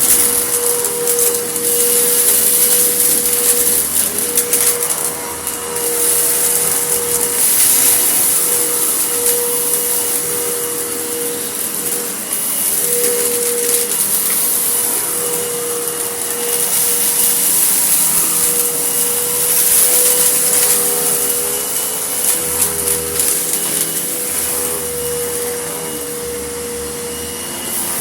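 Vacuum cleaner running over a carpet strewn with grit: a steady motor whine over a rush of air, swelling and dipping every few seconds as it is pushed back and forth, with scattered crackles of grit being sucked up.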